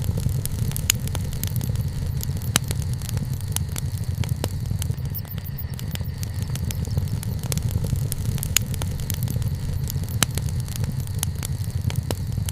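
Wood campfire crackling, with frequent small clicks and a few louder pops over a steady low rumble.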